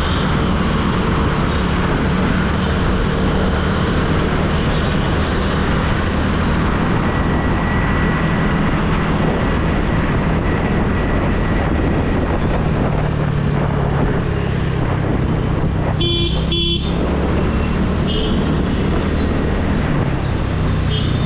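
TVS Ntorq scooter riding through city traffic: a steady engine hum with road and wind noise. Two short vehicle horn honks sound about sixteen seconds in.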